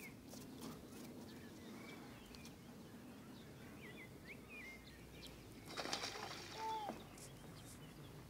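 Small birds chirping now and then, short scattered calls over a faint outdoor background, with a brief louder flurry of noise about six seconds in.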